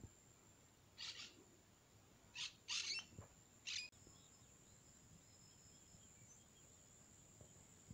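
Four short, high bird chirps in the first half, then near silence with only a faint steady hiss.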